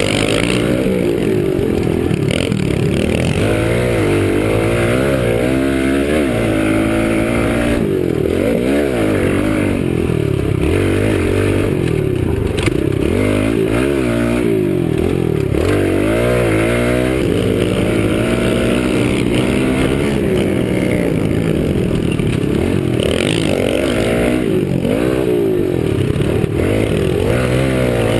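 Kawasaki KLX110 pit bike's small four-stroke single-cylinder engine under way, its pitch repeatedly rising as it accelerates and dropping as it shifts or backs off the throttle.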